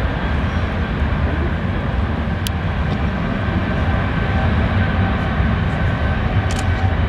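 Boeing 777 jet engines at takeoff power, a steady deep rumble with a hiss above it.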